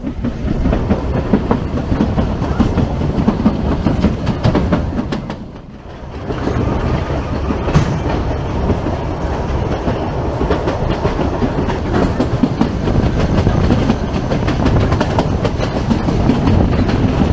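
Narrow-gauge passenger train running, heard from an open coach window: a steady rumble with the wheels clattering over the rail joints. The sound dips briefly about six seconds in, then picks up again.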